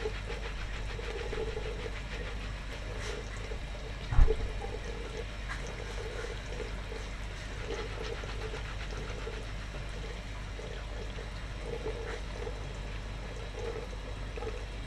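Steady machine noise with a constant low hum, broken once by a single heavy thump about four seconds in.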